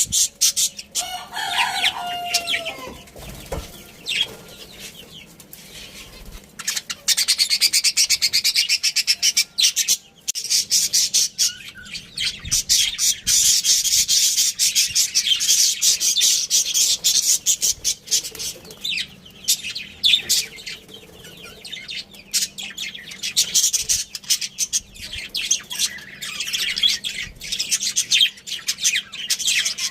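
Budgerigars chirping and chattering in rapid high-pitched bursts, with a brief lower bird call near the start.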